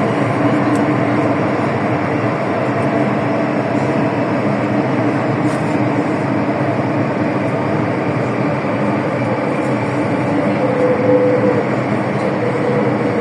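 Hong Kong MTR M-Train heard from inside a car while running, a steady rumble of wheels on rail with a low hum. A tone from the traction equipment comes in near the end.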